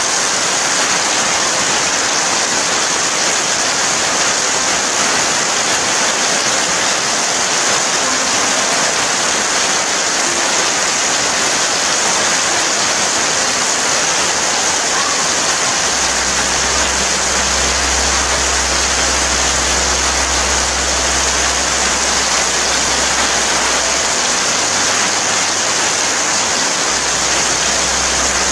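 Steady rain falling, an even hiss with no letup. About halfway through a low rumble joins underneath, dropping out briefly near the end.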